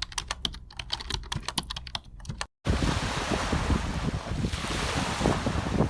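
A rapid run of keyboard typing clicks for about two and a half seconds, then a sudden cut to a brief silence. After it, sea waves washing on a beach with wind buffeting the microphone.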